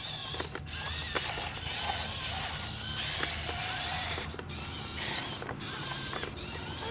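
A toy RC dump truck's small electric motor and plastic gearbox running with a steady hum, with creaks and scattered clicks from its moving plastic parts.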